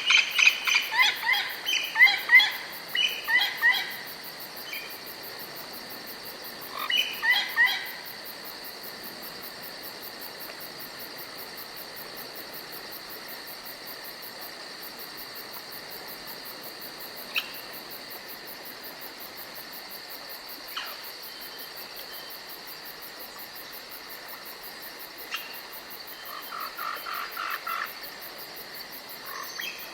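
Forest ambience: a steady high-pitched insect drone, with a bird's bursts of short falling chirps in the first few seconds and again about seven seconds in, a few single calls after that, and a quick run of notes near the end.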